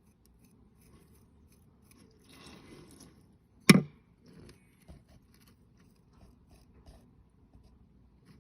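A single sharp knock a little past a third of the way in, just after a short faint rustle, followed by a few light clicks.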